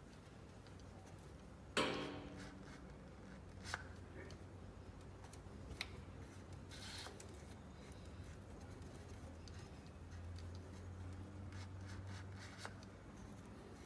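Work noises: a sharp knock that rings briefly about two seconds in, then scattered light clicks and a short rustle over a low steady hum.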